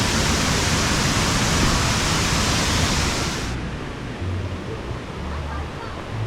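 Waterfall rushing: a steady, loud hiss of falling water that cuts off abruptly about three and a half seconds in. What follows is quieter water noise with faint, low, irregular thumps.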